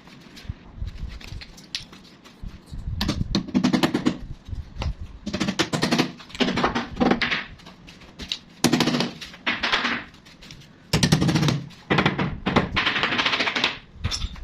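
A tool working wood in repeated bursts of rapid rattling clatter, each about a second long, with short pauses between strokes.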